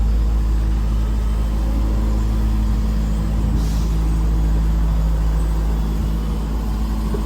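Steady low rumble of a car heard from inside the cabin: engine and road noise with a constant low hum. There is a brief faint hiss about three and a half seconds in.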